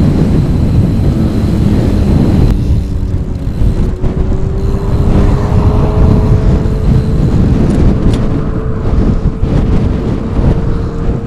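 Heavy wind buffeting the microphone on a bicycle speeding downhill, with a faint hum that rises slowly in pitch from about three seconds in.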